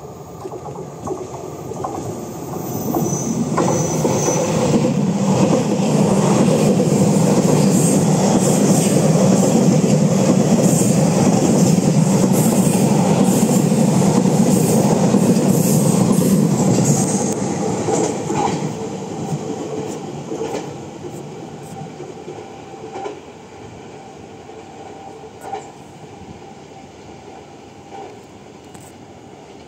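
Taiwan Railways train going by: a rumble that builds for a few seconds, stays loud for about twelve seconds, then fades away, with wheel clicks over the rail joints.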